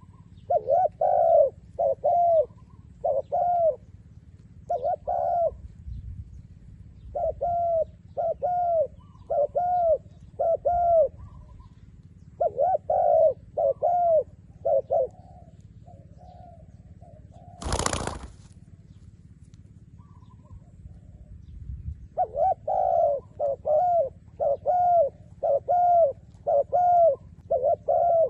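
A decoy dove cooing in repeated runs of short, arched notes, with pauses between the runs. A brief loud rushing noise comes about 18 s in.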